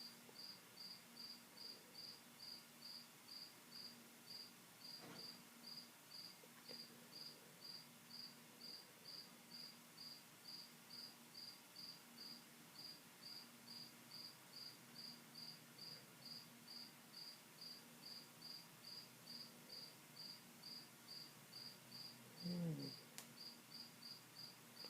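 A cricket chirping faintly and steadily, short high chirps at about two and a half a second.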